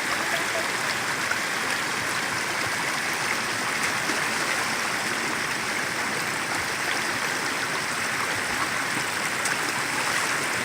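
Rain-swollen creek running fast: a steady rush of water. The creek is usually dry and is in flood after two days of heavy rain.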